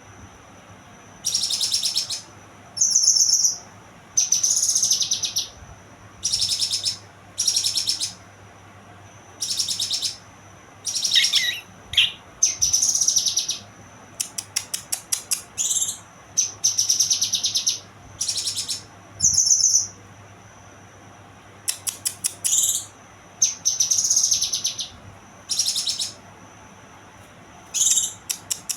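Young kinoy songbird singing: short, high-pitched phrases of about a second each, repeated over and over with brief pauses, some of them rapid trills.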